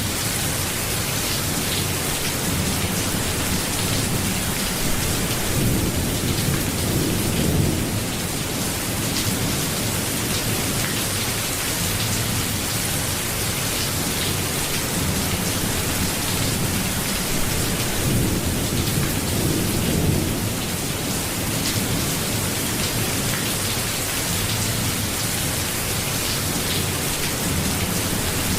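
Steady rain falling, with low rumbles of thunder swelling twice, about a quarter of the way in and again about two-thirds of the way in.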